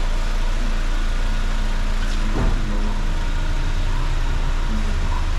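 Steady low drone of a running motor under a constant hiss, with one brief knock about two and a half seconds in.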